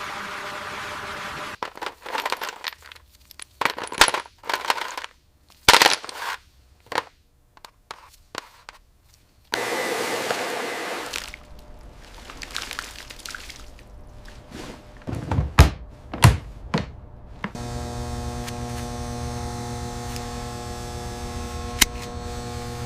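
Irregular sharp knocks, cracks and clanks with short bursts of hiss, then a steady droning chord in the last few seconds.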